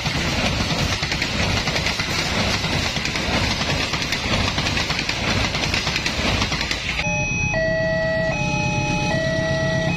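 Passenger train coaches passing at close range, a steady rush of wheels on rail. About seven seconds in it cuts to a railway level-crossing warning alarm: electronic tones alternating between two pitches about every three quarters of a second, over a low hum.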